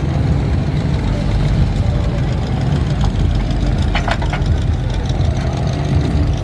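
Car engine idling with a deep, steady exhaust rumble, and a few short clicks about four seconds in.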